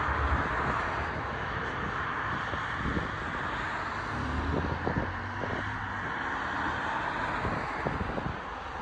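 Distant jet airliner engines heard as a steady rushing noise, with wind buffeting the camera's microphone in low thumps.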